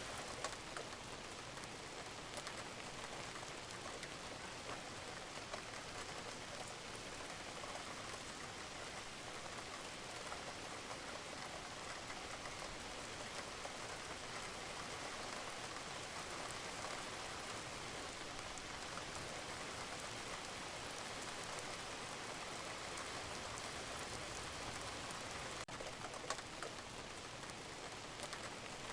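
Steady rain falling on a roof, a constant hiss with many small drops ticking through it. A few louder single drips stand out now and then.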